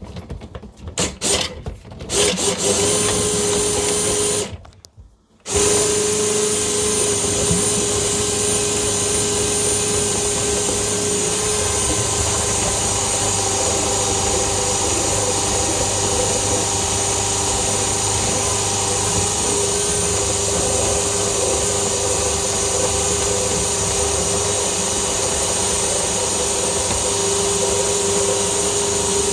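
Electric motor of a drain-cleaning machine running steadily with a constant whine. It starts about two seconds in, stops for about a second near the five-second mark, then runs on unchanged.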